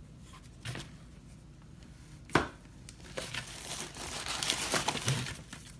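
Crinkling of plastic and paper firework packaging as the fireworks are handled, with a few sharp knocks, the loudest about two and a half seconds in. The crinkling is densest in the second half.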